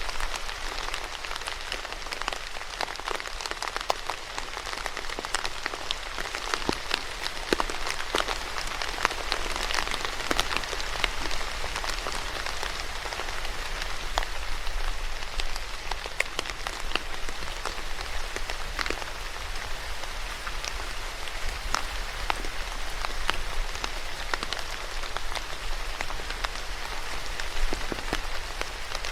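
Steady rain falling on a surface, a continuous patter with many distinct drop taps.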